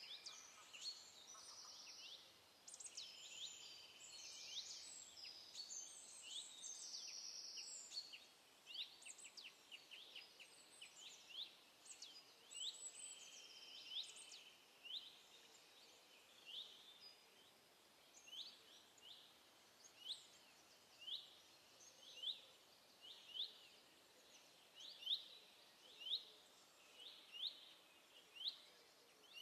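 Birds chirping and twittering. Several call at once at first, then from about a third of the way in a single short chirp repeats about once a second.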